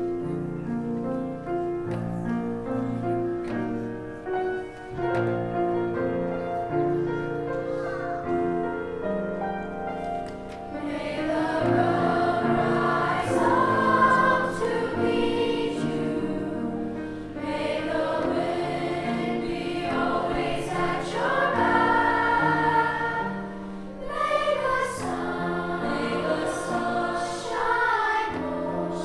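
A children's choir singing a praise song with accompaniment. An instrumental introduction plays first, and the voices come in about eleven seconds in.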